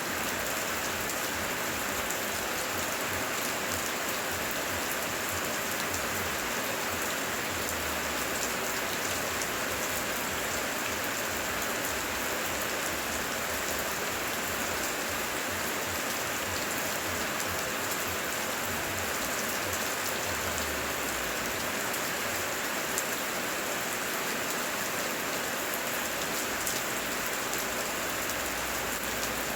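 Rain falling steadily, an even hiss of drops striking surfaces with faint individual drop ticks.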